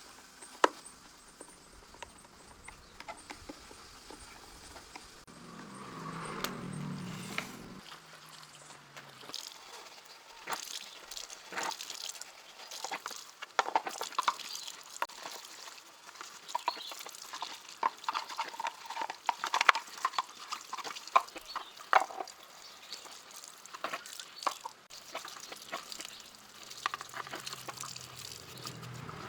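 Irregular light clicks and knocks of hard objects being handled, with a short low rumble about six seconds in.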